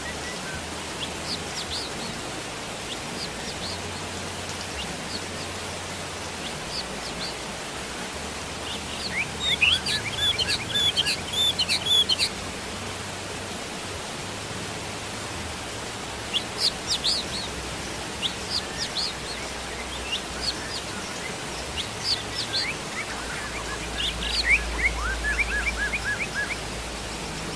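Steady hiss of rainfall with small birds chirping over it in several bursts of quick, repeated high notes, the busiest about a third of the way in and again near the end.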